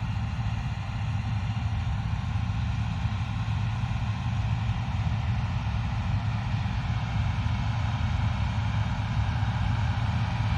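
Combine harvester running steadily at work, a deep engine drone under an even hum of threshing machinery.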